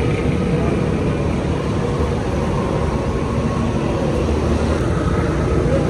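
Honda Civic engine idling, heard up close at the rear of the car: a steady low rumble.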